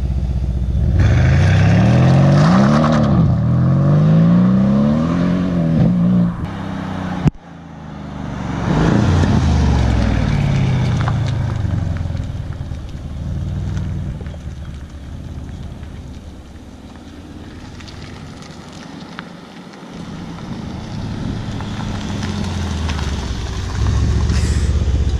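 Mercedes-AMG C 63 S's twin-turbo V8 accelerating hard away under full throttle, its pitch climbing and dropping several times as it shifts up. The sound breaks off abruptly about seven seconds in. A second hard run follows and fades into the distance, and near the end the engine grows louder again as the car comes back close.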